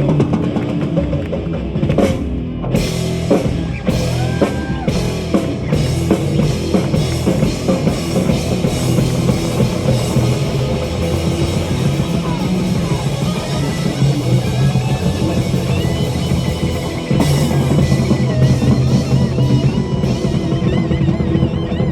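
A live metal band playing an instrumental passage: a full drum kit with cymbals over guitars.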